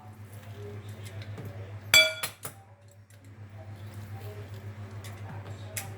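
A kitchen utensil striking a dish: a single sharp ringing clink about two seconds in, followed by a few lighter clicks, over a steady low hum.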